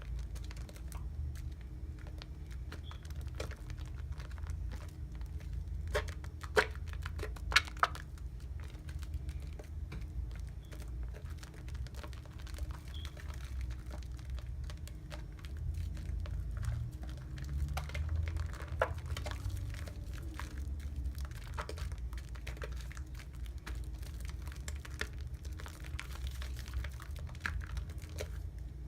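Irish Spring Original soap lather being worked close to the microphone, a dense wet crackling of foam and bubbles. A few louder sharp snaps come about six to eight seconds in.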